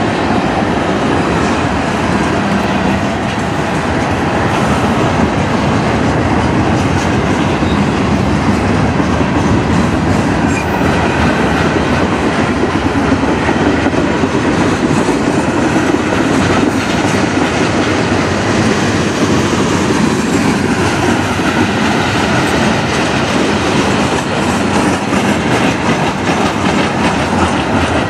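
Freight train's tank cars and boxcars rolling past, a loud steady rumble of steel wheels on rail with repeated clicks as the wheels cross the rail joints.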